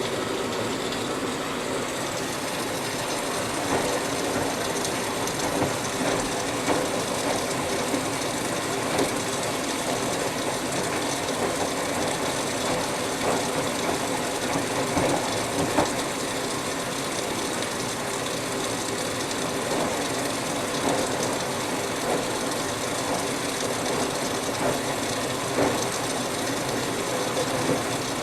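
Whirlpool Duet Sport front-load washing machine running through its rinse cycle: a steady mechanical running noise with occasional light knocks every second or two.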